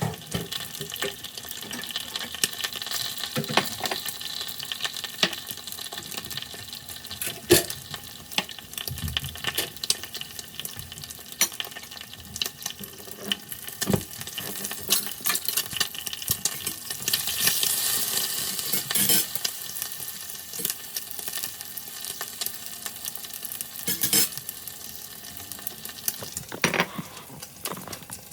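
Egg fried rice sizzling in an iron pan while it is stirred, with frequent scrapes and clicks of the utensil against the pan and a louder burst of sizzle partway through. The audio is sped up to double speed.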